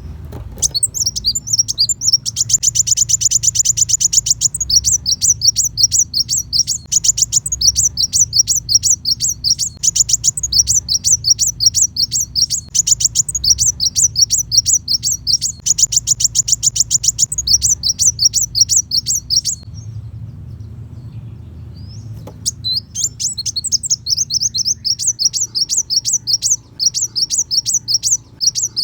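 Kolibri wulung sunbird singing long, rapid runs of sharp, high chirps, the fast 'tembakan' bursts. It breaks off about two-thirds of the way through and starts again a few seconds later. A steady low hum runs underneath.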